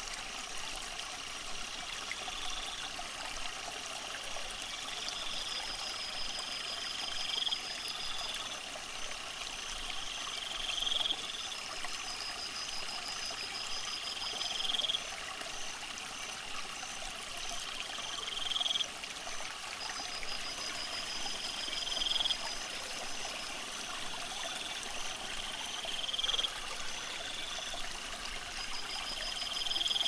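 Water trickling and splashing steadily, as from an aquarium filter return. Over it, a high call rises and then cuts off sharply about every four seconds, with trains of rapid high-pitched ticks between the calls.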